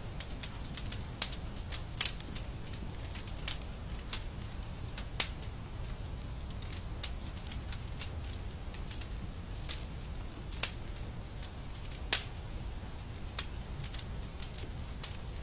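Wood fire crackling in a fireplace: irregular sharp pops and snaps over a steady low rumble of flame, with a few louder pops scattered through, the loudest about twelve seconds in.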